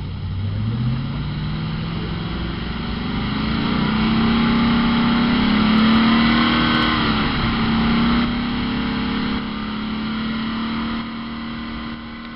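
TVR roadster's Rover V8 revved up from idle over the first few seconds and held at raised revs, loudest in the middle. It dips briefly, then runs steady at a slightly lower speed and eases off a little near the end.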